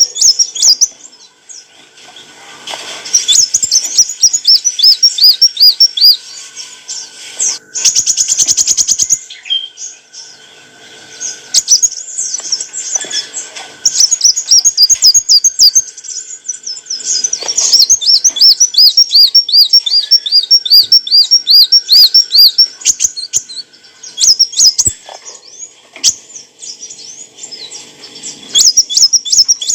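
Kolibri wulung sunbird singing: long runs of fast, repeated high chirping notes, broken by short pauses, with a brief buzzy rattle about eight seconds in.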